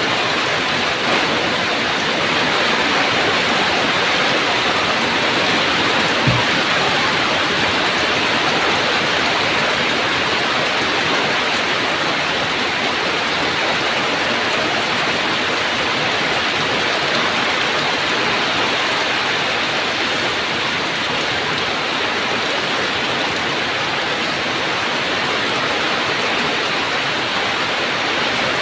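Heavy rain falling steadily, a dense, even hiss of downpour. One brief low thump comes about six seconds in.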